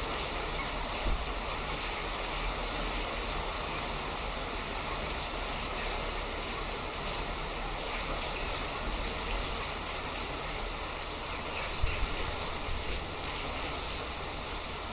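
Steady rushing water noise, with a couple of brief low bumps about a second in and again about twelve seconds in.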